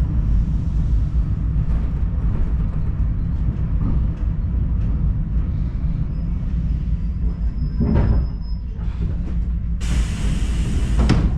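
DPL-1 diesel train running along the track with a steady low rumble. A faint high squeal comes in about seven seconds in, and a short burst of hiss sounds near the end.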